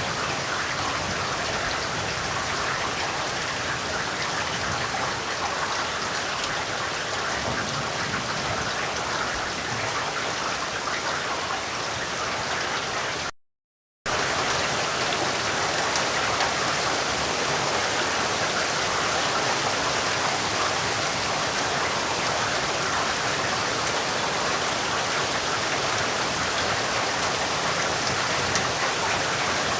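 Steady, heavy rain falling, an even hiss of drops. About halfway through, it cuts out completely for under a second and then comes straight back.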